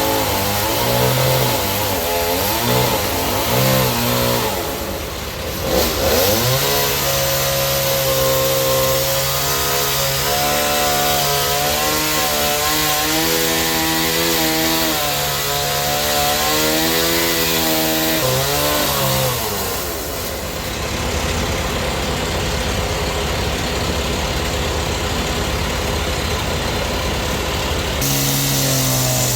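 Sawmill's engine-driven saw running through suar wood, its engine note rising and falling as the cut loads and frees it. For several seconds in the second half an even, hissing sawing noise takes over from the engine note.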